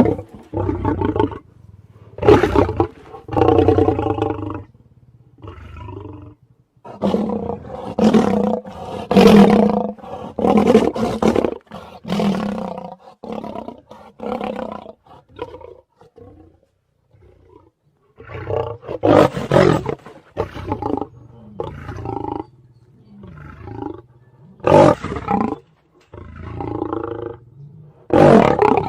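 Tyrannosaurus rex film sound effects: a series of loud roars and shorter calls, one after another with brief pauses, and a silent gap of about two seconds near the middle.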